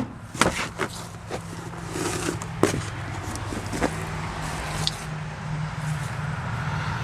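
Scattered clicks and scrapes of handling and movement inside a pickup cab, with a low steady hum coming in about a second and a half in and carrying on.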